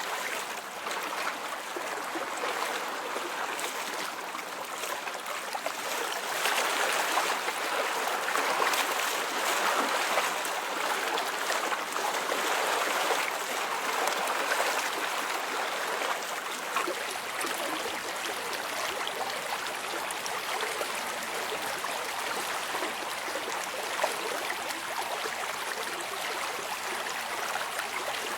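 Running water, a stream flowing in a steady rush, a little louder for about ten seconds starting some six seconds in.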